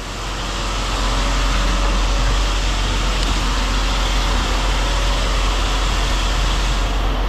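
Steady engine and machinery noise with a strong deep hum, building up over the first second and then holding steady.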